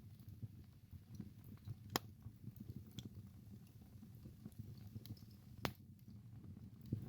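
Wood fire burning in a fireplace: a low flickering rumble with scattered small crackles and two sharp, loud pops, about two seconds in and again near six seconds.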